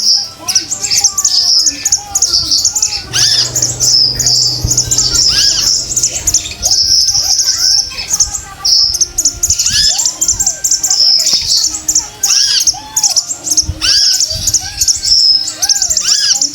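Female konin calling: a dense, continuous run of high chirps and twitters, broken by repeated short arched notes. It is a lure recording, meant to stir a male konin into full song.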